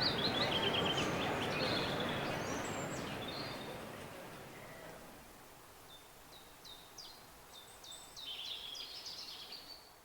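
Small birds singing: quick, repeated chirps and short trills. A wash of background noise under them fades away over the first few seconds, and the birdsong comes back more faintly near the end.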